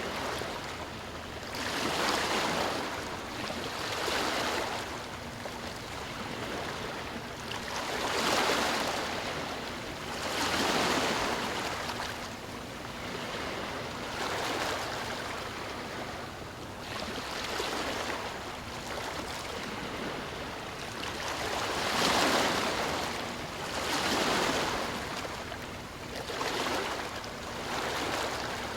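Ocean waves breaking and washing on a shore, a steady rush that swells and falls back every two to three seconds.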